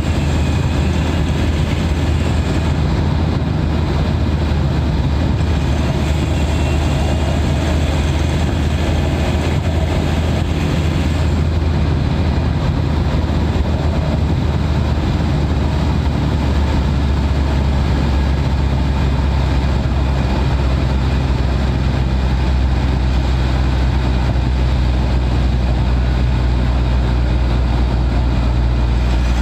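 Mitsubishi Pajero Sport's turbodiesel engine heard from inside the engine bay, running steadily under way at highway speed as a loud, even drone.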